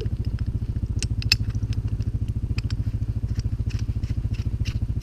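CFMoto 500 ATV's single-cylinder engine idling with a steady, even pulse. Scattered sharp clicks and knocks come over it, the loudest about a second in.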